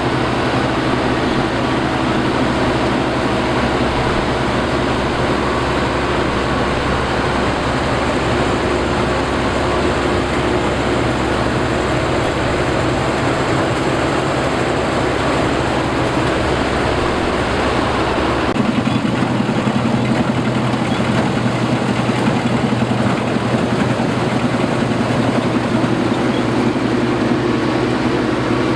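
Combine harvester running steadily under load, a dense mechanical drone with a constant engine note. About two-thirds of the way through, the sound changes abruptly: the deepest rumble drops away and a rougher, rattling texture takes over.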